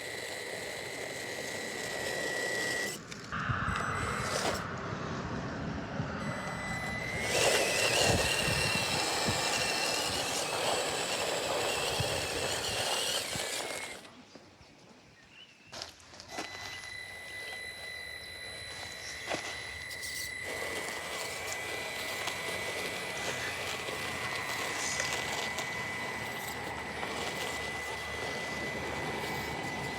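Traxxas TRX-4M Bronco 1/18-scale RC crawler driving in sand: its small brushed motor and gears whine at a steady high pitch over a gritty hiss. The drive stops briefly about halfway through, then starts up again.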